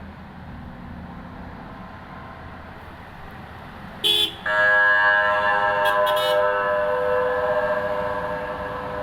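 Low rumble of passing trucks, then about four seconds in a truck horn sounds: a short toot, followed by a long blast of several tones together that slowly fades.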